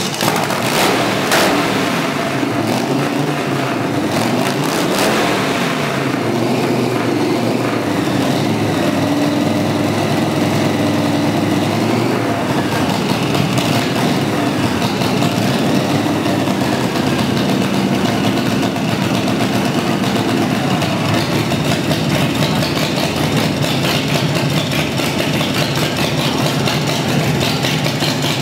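Custom chopper motorcycle's engine running just after starting: it is revved several times over the first few seconds and then settles to a steady idle.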